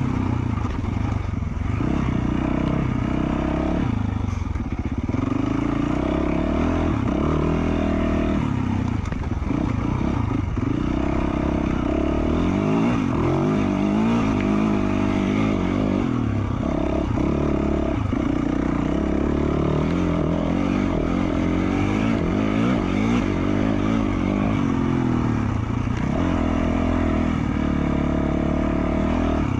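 2020 Yamaha YZ450F's single-cylinder four-stroke engine running through its FMF Q4 slip-on muffler, revving up and down every second or two as the throttle is opened and closed on the trail.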